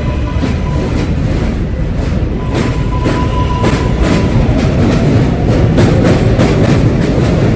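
An R143 subway train running past, its wheels clicking over rail joints with a steady rumble. The clicks come faster and louder toward the end, and a brief steady whine sounds near the middle.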